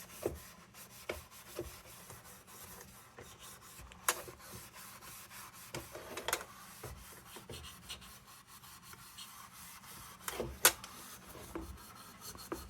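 Quiet scratchy rubbing and scraping on the metal of a cold blast lantern as paint residue is worked off, with a few sharp clicks of tool or metal along the way, the loudest near the end.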